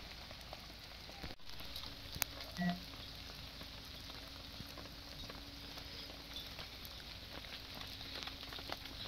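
Steady patter of rain with many small scattered ticks. A sharp click comes just after two seconds, and a short low sound, the loudest moment, comes just before three seconds.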